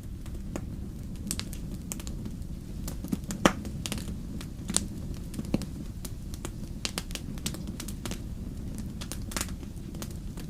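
Fire crackling: irregular sharp pops and snaps over a steady low rumble, the loudest pop about three and a half seconds in.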